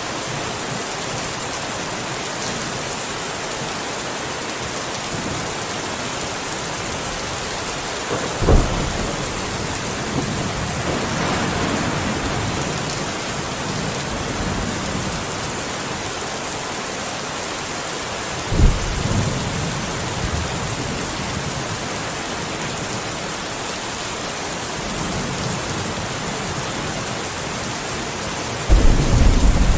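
Steady rain falling, with three sudden thunderclaps about ten seconds apart: one about eight seconds in, one past the middle, and a louder, longer rumbling one near the end.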